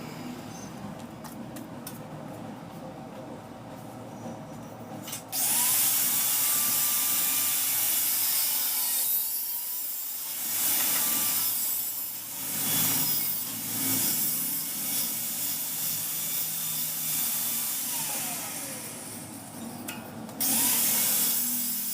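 Handheld electric power tool switched on about five seconds in, its motor rising in pitch as it spins up, then running loud and hissing with the load changing as it works; it winds down near twenty seconds and starts again just before the end.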